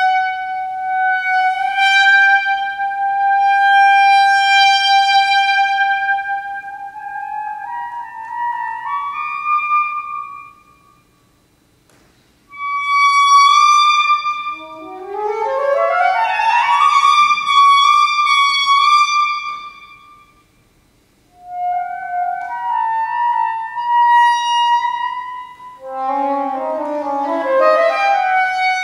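Solo saxophone playing contemporary concert music. It opens with a long held note that steps upward, then after a pause plays a fast rising run up to another held high note. After a second short pause it plays shorter phrases and quick flurries of notes.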